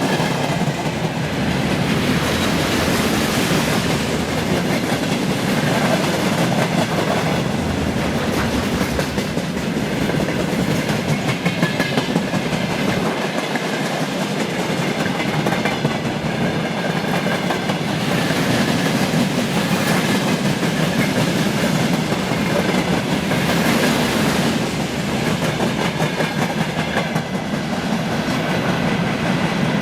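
Loaded freight wagons rolling past, wheels clicking and rumbling over the rail joints in a steady continuous stream.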